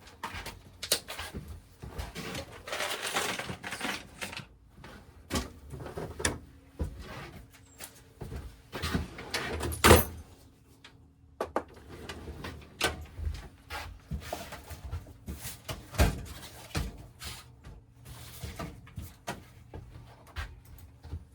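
Irregular knocks, clicks and rustling of things being handled, with one loud knock about ten seconds in; a faint steady hum sits under the second half.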